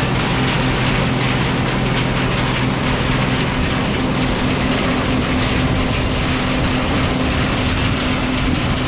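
John Deere 9560 walker combine running steadily while harvesting corn: a constant low engine hum under a broad, even rush of machinery noise.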